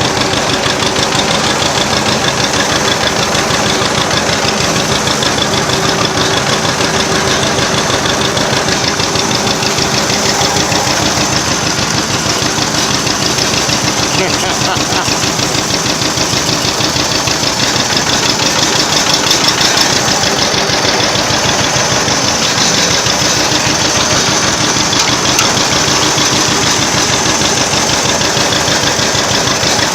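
Vintage tractor engine running steadily close by, with a rapid, even firing beat.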